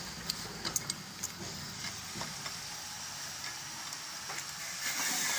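Mechanical work noise: a few sharp metallic clicks in the first second over a steady hiss, then a louder steady noise starting near the end.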